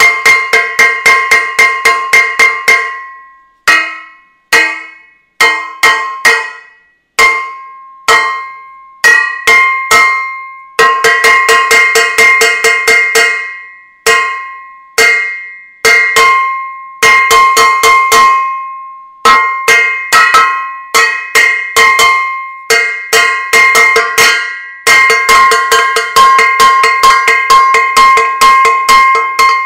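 A metal saucepan struck repeatedly, each hit ringing with a clear metallic tone. The strikes come in quick runs of several hits a second, broken by short pauses.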